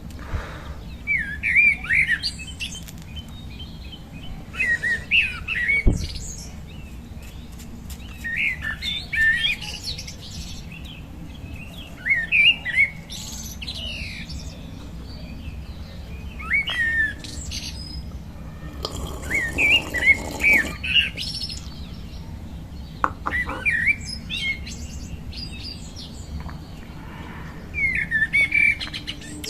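A songbird sings short, quickly warbling phrases about eight times, each a second or so long and a few seconds apart, over a steady low hum. Near the middle a brief hiss rises under one phrase.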